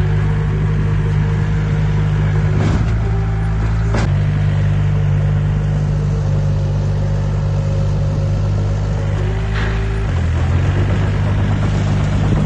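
Heavy diesel engine of construction machinery running steadily, with a few short sharp knocks and a change in the engine note about ten seconds in.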